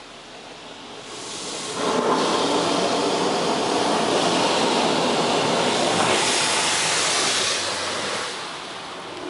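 High-pressure rinse jets of a touchless automatic car wash spraying water onto the car, heard from inside the cabin. The hiss of spray swells about two seconds in as the jets sweep over, holds steady, and fades near the end.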